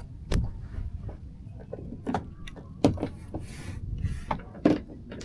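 Handling noise in a kayak: a handful of scattered knocks and clicks, about six, over a steady low rumble.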